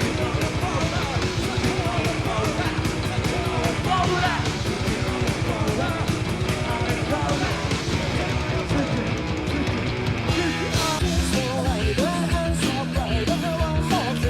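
Rock band playing with singing: drums, electric guitar and bass under a lead vocal, in a fast punk-rock style. About ten seconds in, the bass line changes to a new pattern.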